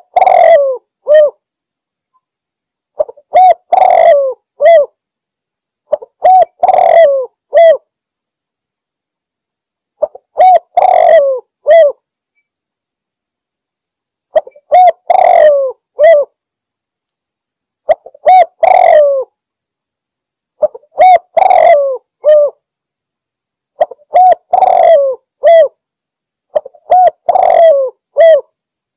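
Spotted dove (tekukur) cooing loud and clear: a short phrase of a few coos, repeated about every three to four seconds, nine times. It is a male's challenge call to a rival, used as a lure call.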